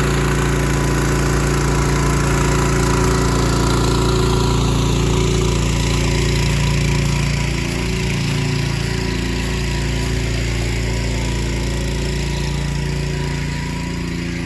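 Pressure washer's petrol engine running steadily, with a hiss over it that eases slightly about halfway through.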